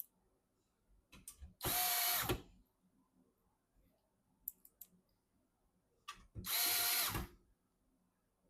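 Electric screwdriver driving screws in two short runs of under a second each, about five seconds apart, with small handling clicks around them.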